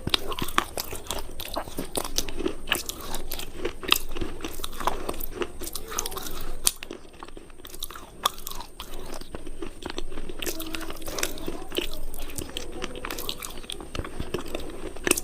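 Close-up crunching of hard, brittle cubes between the teeth: rapid sharp cracks and chewing, easing off for a moment about halfway through before the crunching picks up again.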